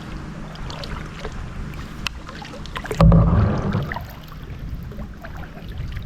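Kayak paddling sounds: water swishing and dripping off the paddle, with small knocks and clicks against the hull. There is a loud low thump about three seconds in.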